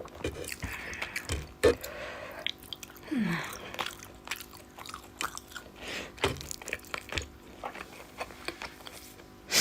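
Close-miked chewing of rice and fish curry, full of short sharp mouth clicks at an uneven pace, with a brief falling sound about three seconds in.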